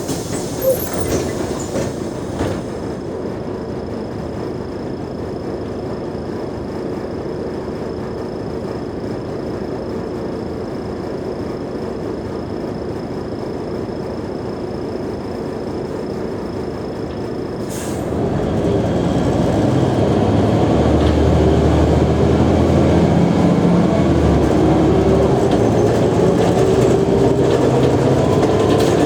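Mercedes-Benz O345G articulated bus heard on board: a steady low running noise, then about two-thirds of the way through the engine gets louder and its note climbs steadily as the bus accelerates.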